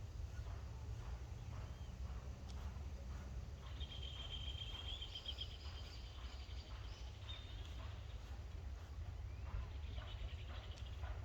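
A bird sings a high trill for a few seconds, starting about four seconds in, and again briefly near the end, over a steady low rumble.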